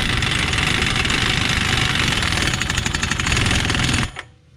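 Impact wrench running the axle nut onto the hub, a steady rapid hammering that stops suddenly about four seconds in.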